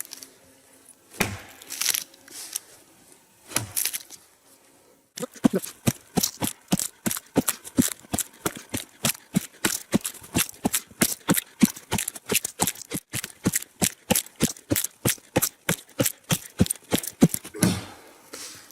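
A few separate knocks, then from about five seconds in a hand saw cutting through a log in quick, even strokes, about four a second, stopping near the end.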